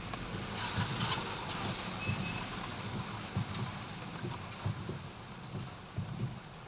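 Steady road noise from a moving vehicle, with uneven low buffeting of wind on the microphone.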